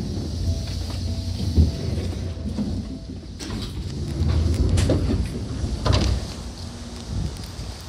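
Seibu 4000 series electric train running, heard from inside the car near the underfloor circuit breaker: a low, uneven rumble of wheels and running gear with a few sharp knocks.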